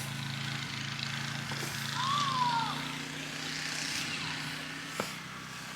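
A steady low engine hum, with a short rising-then-falling squeak about two seconds in and a sharp click near the end.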